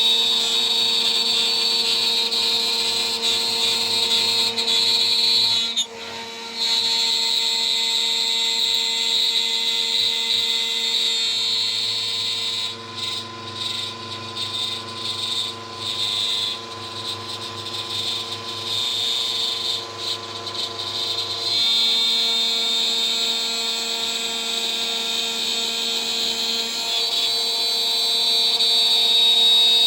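CNC spindle running at about 14,000 rpm, turning a 3 mm three-flute end mill while it mills, with a steady high whine. In the middle of the clip a low hum comes in and the whine flickers and drops out unevenly for several seconds, then it settles back to steady running.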